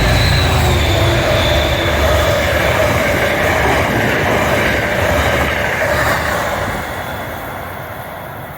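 MBTA train running past close by, its wheels squealing with steady high tones over the rumble of the cars on the rails. It fades away over the last two seconds.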